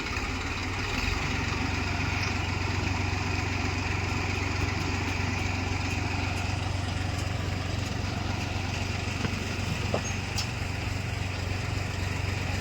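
A heavy machine's diesel engine running steadily, picking up slightly about a second in, with one brief click near the end.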